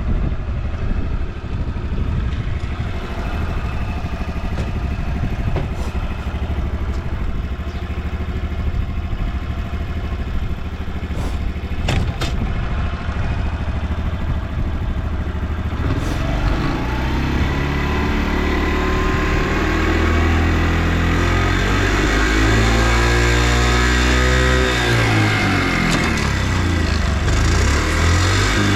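Honda Motra AD05's small air-cooled single-cylinder four-stroke engine idling steadily, then revved up partway through, held high and eased back down, running quietly with no abnormal noise.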